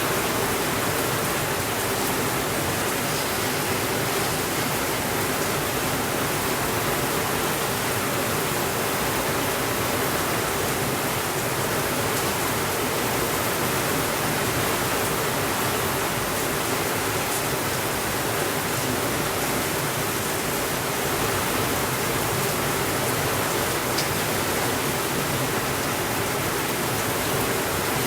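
Steady rainfall, an even, unbroken hiss, with a few faint ticks here and there.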